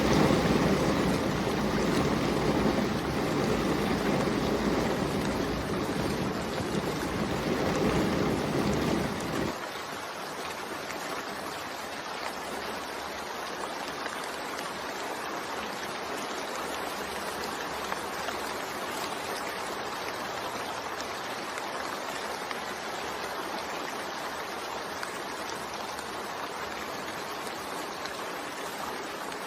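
Steady rain, heavier with a low rumble under it for about the first nine seconds, then cutting suddenly to an even, lighter rain hiss.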